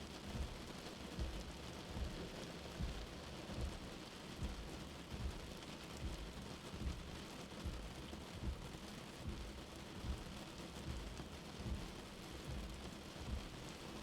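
Steady, even rain, with a soft, low heartbeat thudding regularly underneath at a little over one beat a second.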